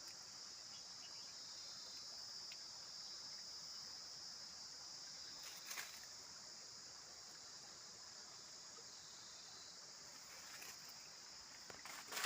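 Faint, steady insect chorus, a continuous high-pitched chirring of crickets or cicadas, with a couple of soft knocks about halfway through and near the end.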